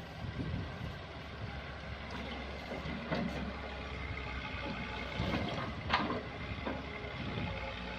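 Kobelco excavator's diesel engine running steadily, with a few short knocks and scrapes from the machine at work, the loudest about six seconds in.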